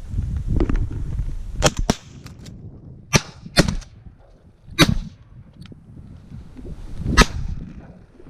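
Shotgun blasts from two hunters firing at ducks: about six shots over several seconds, the first two close together and the rest spaced apart. A low wind rumble runs under the first two seconds.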